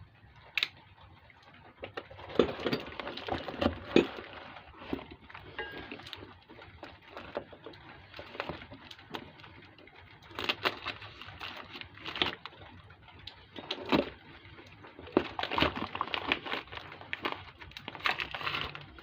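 Irregular handling noise: rustling, light clicks and knocks as a motorcycle luggage rack and its packaging are unpacked and worked on by hand, with louder clusters of clatter a few times.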